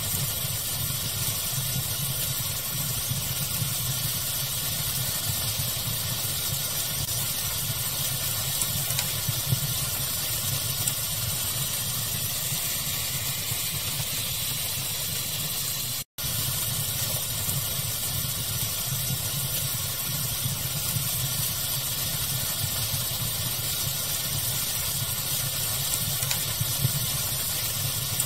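Steady fireplace-style fire ambience blended with pink noise: an even hiss over a low rumble, with small occasional crackles. The sound cuts out for an instant about halfway through.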